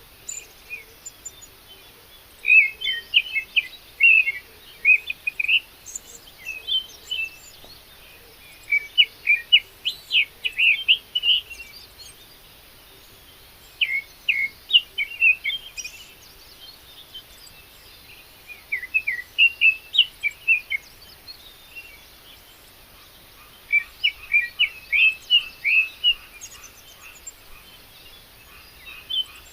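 A songbird singing in short bursts of quick, high chirping notes, each phrase lasting a second or two and repeated every few seconds.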